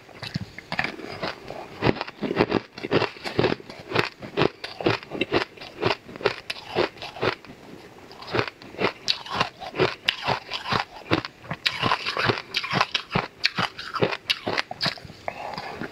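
Close-miked chewing of a mouthful of icy purple dessert, with dense, irregular crunches several times a second.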